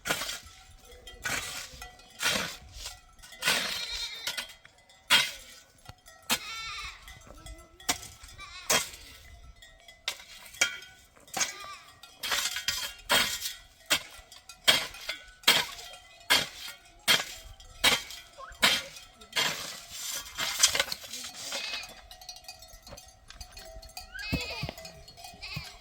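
Sheep and goats bleating now and then over a long run of sharp knocks and clinks, about one or two a second.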